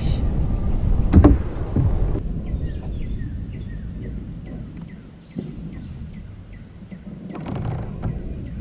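A low rumbling noise with a sharp knock about a second in. Then it quiets and a small bird chirps repeatedly, short high chirps a few times a second for several seconds.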